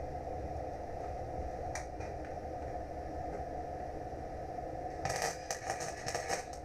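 A steady machine hum in a workshop, with a single click about two seconds in and then a quick run of clicks and scrapes, like metal being handled, near the end.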